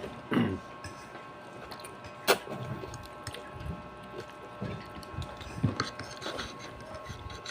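Eating sounds: soft chewing and mouth noises, with one sharp clink of a utensil about two seconds in, over a faint steady hum.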